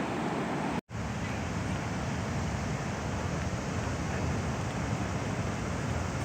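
Sea waves breaking and washing onto the shore, a steady rushing surf, which cuts out to silence for an instant just under a second in.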